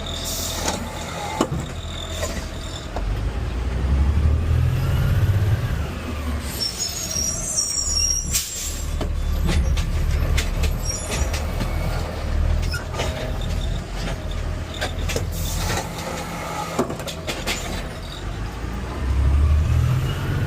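Garbage truck's diesel engine running and revving up under load in waves as the truck works a heavy cart, with scattered clanks and knocks and a brief high whine.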